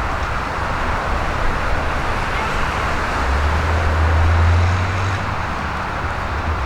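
BMW M5 F90's twin-turbo V8 running at low revs through an aftermarket exhaust, a steady low drone that swells for a couple of seconds midway.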